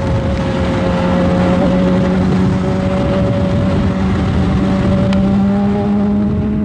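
2009 Suzuki GSX-R 600's inline-four engine running under way at a steady high pitch that rises slowly, with rumbling wind and road noise.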